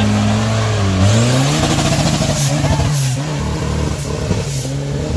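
Off-road trail motorcycle engine running steadily, then revved up about a second in and kept on an uneven throttle, the pitch rising and falling.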